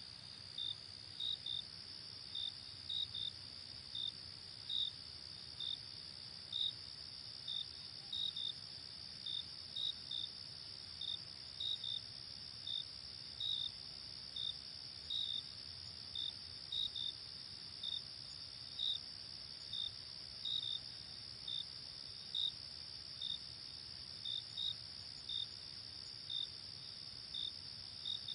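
Night crickets: a steady high trill with separate short, higher-pitched chirps repeating irregularly at a little under two a second.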